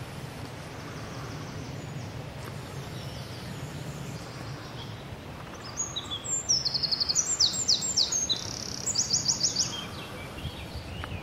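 A songbird singing a rapid, high, trilling song about halfway through for roughly four seconds, over a steady low background rush.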